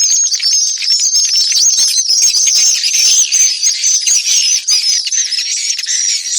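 Swiftlet call track: a dense, unbroken stream of rapid, high-pitched twittering chirps from many swiftlets at once, the kind of recording played to lure swiftlets into a nesting house.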